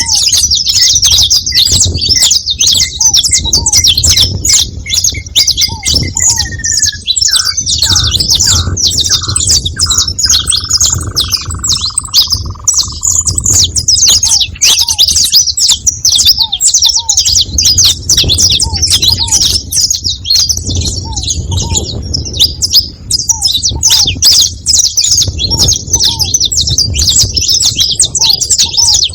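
A group of saffron finches chirping together: dense, continuous, overlapping high chirps, with one long falling whistle partway through.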